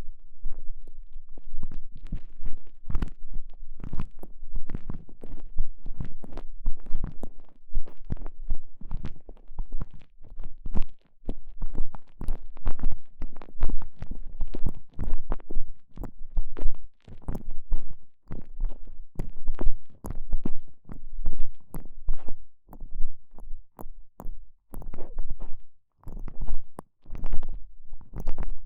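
Microphone inside a TENGA Egg elastomer sleeve as the sleeve is squeezed and rubbed around it: close, muffled rubbing and squeezing noises in quick, irregular strokes, heaviest in the low end.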